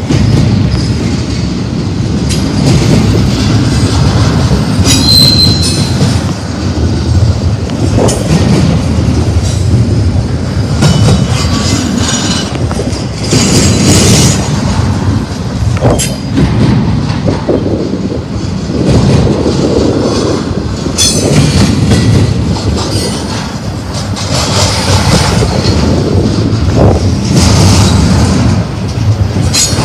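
Double-stack intermodal well cars rolling past close by: a loud, continuous rumble of steel wheels on rail, with occasional sharp clanks. Intermittent high-pitched wheel squeal comes and goes.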